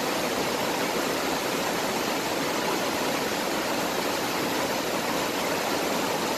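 Mountain valley stream running high and rushing steadily over rocks, a continuous even roar of water with no let-up.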